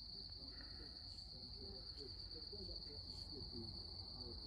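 A steady, high-pitched trill from a night insect chorus, with faint distant voices underneath.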